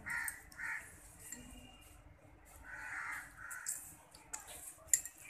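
A bird calling in short harsh cries, one pair right at the start and another pair about two and a half seconds in. A few faint clicks are scattered through, with one sharp click near the end.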